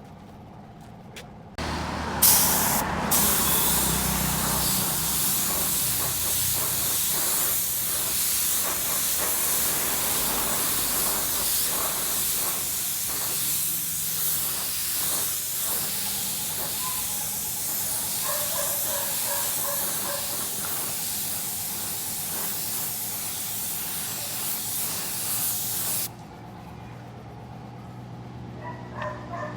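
Paint spray gun hissing steadily as it sprays, starting about a second and a half in and cutting off suddenly near the end.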